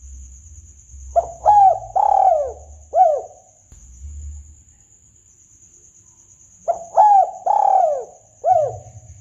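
Spotted dove cooing: two phrases of about four rising-and-falling coos each, the second coming about five seconds after the first.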